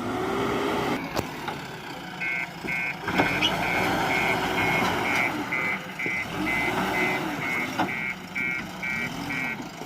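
Diesel engine of a backhoe loader working, its pitch rising and falling as it revs up and down. From about two seconds in, a reversing alarm beeps steadily a little over twice a second, and a few sharp clanks come through.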